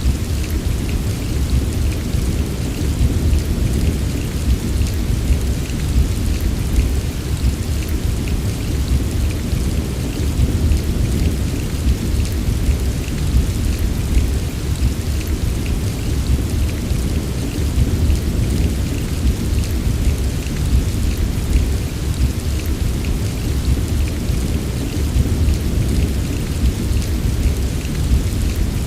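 Steady heavy rain with a deep, continuous low rumble underneath and faint scattered drop ticks, unchanging throughout.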